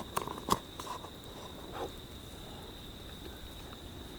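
A steady high insect trill runs throughout. A few sharp clicks and knocks fall in the first half-second, from the spoon and food pouch as he takes a first mouthful of stew.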